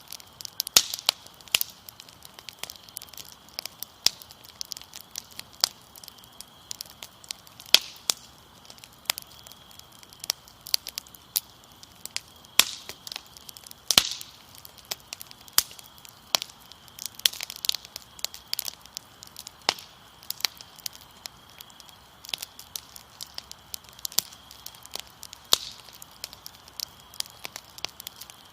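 Fire crackling with frequent sharp, irregular pops, over a faint, steady chirring of crickets.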